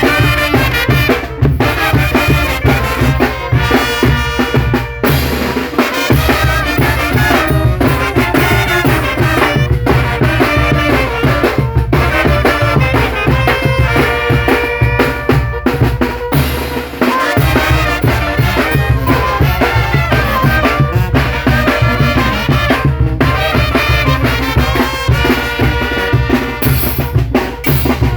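Mexican banda (brass band) playing a lively tune: brass carrying the melody over a steady drum and bass beat.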